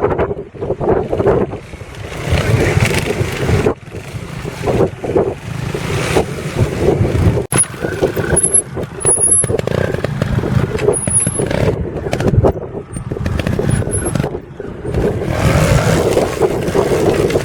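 Trials motorcycle engine running and revving up and down, with wind noise on the microphone.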